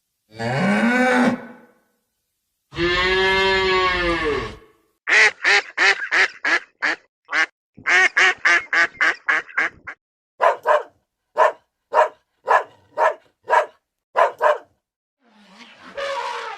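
A string of separate animal calls: a short call, a long drawn-out call, then two quick runs of short calls at about four a second, and a slower run at about two a second.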